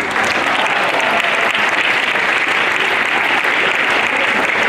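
An audience of schoolchildren applauding, a dense, steady clapping that starts at once.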